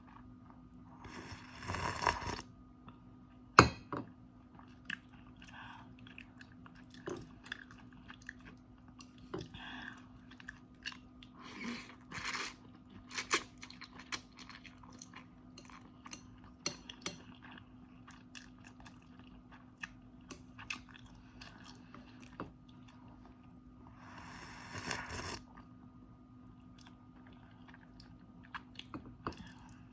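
Close-up chewing and crunching of instant noodles, with many small clicks and crackles. Two longer noisy bursts come a second or two in and again about three-quarters of the way through, and a single sharp, loud click comes a few seconds in. A faint steady hum sits underneath.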